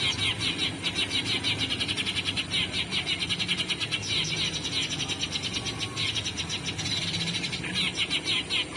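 Eurasian tree sparrow chirping played from an MP3 lure recording: fast chirps repeated many times a second, in runs broken by short pauses.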